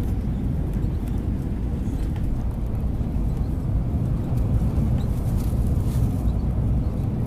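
Airbus A320 landing in storm winds: a steady low rumble with no clear engine tone.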